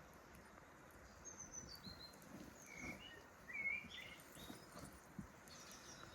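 Faint bird calls: a few short high chirping notes, some falling in pitch, in the first few seconds, with scattered soft low knocks beneath.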